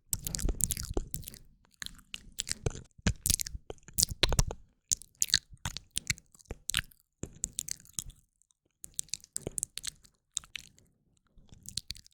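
Close-miked ASMR mouth sounds: a woman's wet tongue and lip clicks and pops in a rapid, irregular series, with short pauses.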